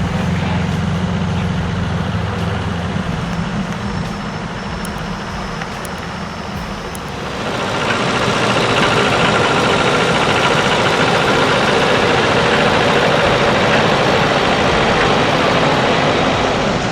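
Heavy truck engine running with a steady low hum; about seven seconds in, a louder, noisier mechanical sound takes over and holds steady.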